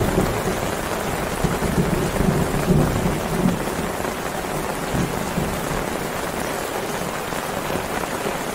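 Heavy tropical downpour falling steadily on the forest and a tarp overhead, with a low rumble about one and a half to three and a half seconds in.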